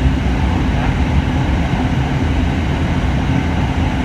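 Hitachi-built electric commuter train running: a steady low rumble with a constant hum.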